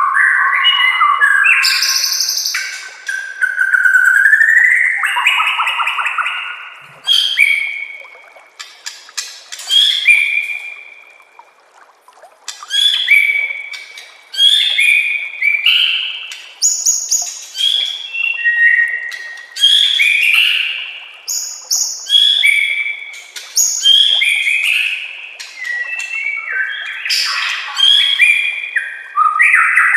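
White-rumped shama (murai batu) singing: a long run of short, varied whistled phrases with gliding notes, one after another about every second.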